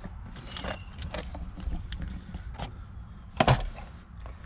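Scattered light clicks and knocks of objects being handled, with one louder knock about three and a half seconds in, over a low steady rumble.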